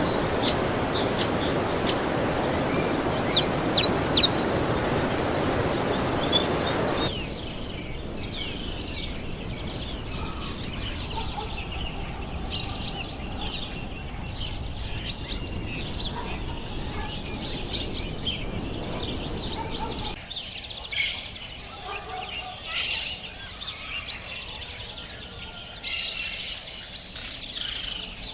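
Wild birds chirping and calling over forest ambience. A loud steady rushing noise under the first seven seconds cuts off abruptly, leaving quieter background with many short high calls from several birds.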